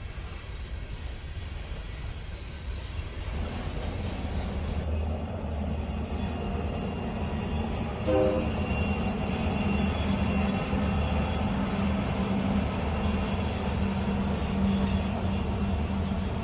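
Diesel-hauled freight train drawing nearer, its low engine rumble growing louder, with high-pitched steel wheel squeal setting in about five seconds in and a brief pitched tone about eight seconds in.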